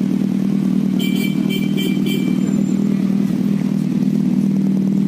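Motorcycle engine running at a steady, even speed, a loud constant hum. About a second in, four short, high beeps sound in quick succession.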